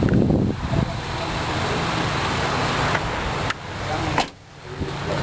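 Saturn VUE's 2.2-litre four-cylinder engine idling with a steady low hum, under a rushing noise from wind on the microphone; both dip briefly about four seconds in.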